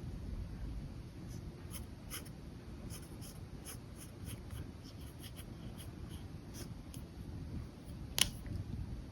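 Pen nib scratching and ticking on paper in short, irregular sketching strokes over a low steady room hum, with one sharper click about eight seconds in.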